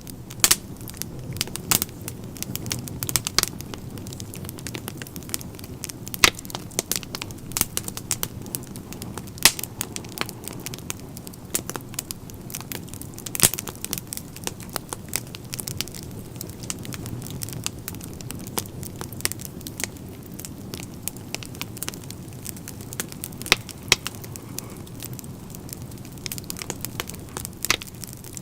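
Wood fire crackling in a fireplace: a steady low rumble of flames under irregular sharp pops and snaps, a few of them much louder than the rest.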